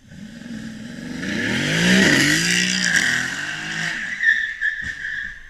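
A car's engine rising and then falling in pitch while its tyres squeal for several seconds, with a short sharp knock about four seconds in.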